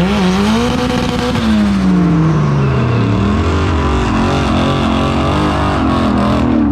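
Street-racing car engine at full throttle: its pitch climbs sharply in the first second, holds, then falls away over the next two seconds as the car passes. A second engine follows with a wavering pitch.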